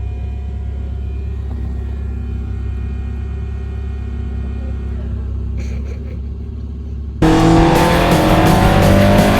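Race car's tuned Vauxhall C20XE four-cylinder engine at high revs, cutting in suddenly about seven seconds in, its pitch rising as it accelerates, over a steady low hum.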